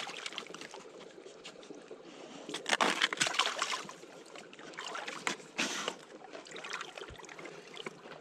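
Footsteps sloshing through wet snow and slush, coming in irregular bursts with a louder stretch about three seconds in and another about five seconds in.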